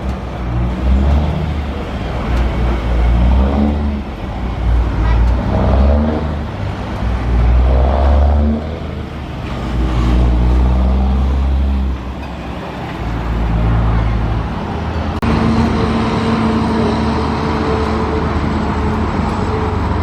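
Road traffic: vehicle engines running and passing, their rumble rising and falling, then a steady engine drone from about fifteen seconds in.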